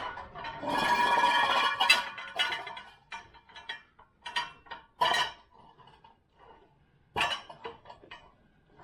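Metal tools and parts clinking and scraping against each other: a ringing scrape lasting about a second and a half near the start, then several separate sharp clinks.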